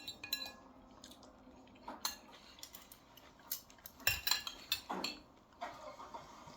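Cutlery clinking and tapping against plates and bowls during a meal, in scattered short clinks, some ringing briefly, busiest around four to five seconds in.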